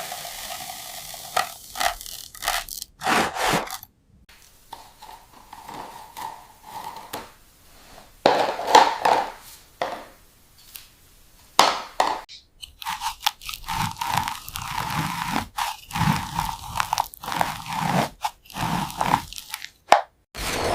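Model RC construction truck at work: irregular crunching and scraping, with a small electric motor whining steadily in stretches, mostly in the second half.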